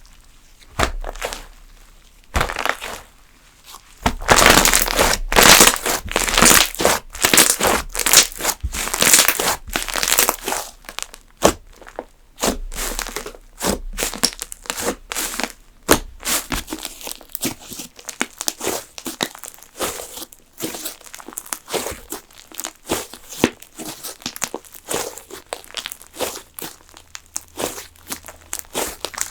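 Slime being squished, stretched and pulled apart by hand, a dense run of sticky crackles, pops and tearing sounds. The sounds are sparse and quieter for the first few seconds, then come thick and loud from about four seconds in.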